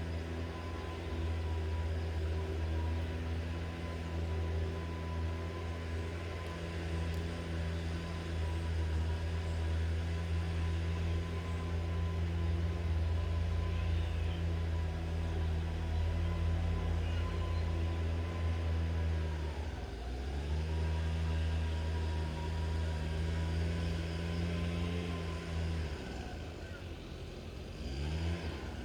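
Large engine running steadily. Its pitch drops briefly and comes back up about twenty seconds in, and again near the end.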